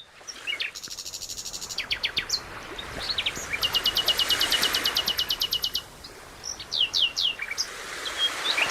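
Songbirds chirping and singing: rapid high trills of many quick repeated notes, about a second in and again from around three and a half to six seconds, mixed with short chirps and quick down-sweeping whistles.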